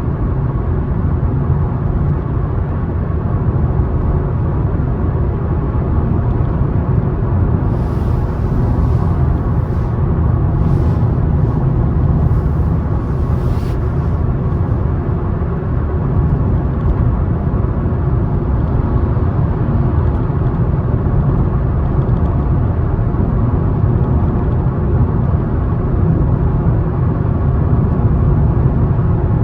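Car road noise while driving: a steady low rumble of tyres and engine.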